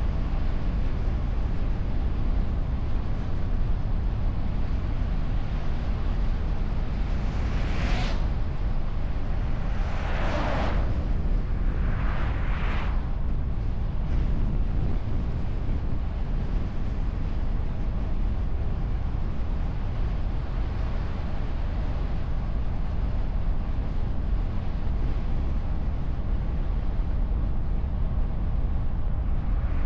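Car driving on the road, heard from a camera mounted on the bonnet: steady low rumble of road and wind noise. Three brief whooshes come between about eight and thirteen seconds in, and another right at the end.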